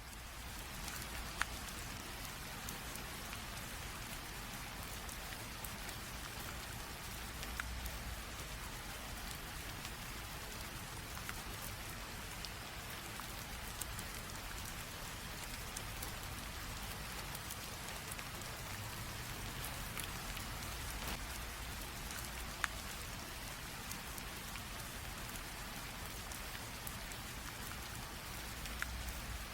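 Light rain drizzle falling steadily as an even hiss, with occasional sharper taps of single drops.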